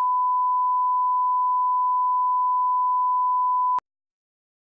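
A steady 1 kHz test tone, one pure unwavering pitch, cutting off abruptly about four seconds in.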